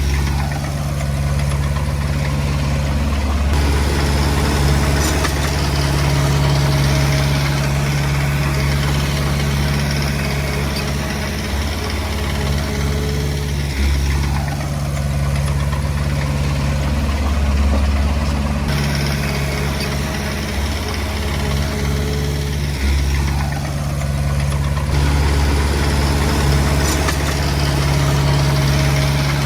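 Komatsu D20P bulldozer's diesel engine running steadily at work, its note shifting as the load comes and goes about every ten seconds.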